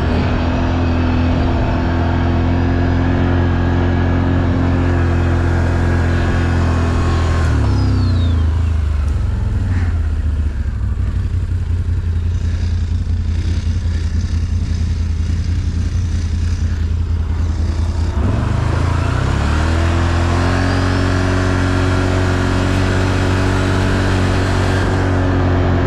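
ATV engine running under throttle, dropping to a lower speed about eight seconds in, then picking back up around nineteen seconds and holding steady again.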